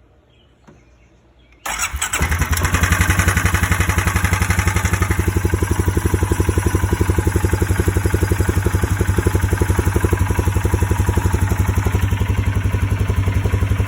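Polaris Sportsman 570 ATV's single-cylinder engine starting up about two seconds in, catching at once and settling into a steady, evenly pulsing idle. It is being run just after an oil change to fill the new oil filter with oil.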